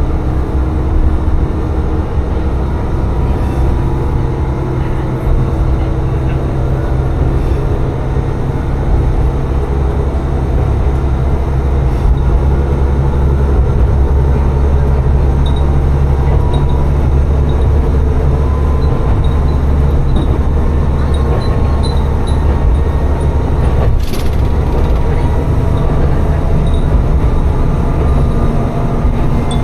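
Tsugaru Railway diesel railcar running along the line: a steady low engine and wheel rumble that grows slightly louder about a third of the way through, with one sharp knock late on.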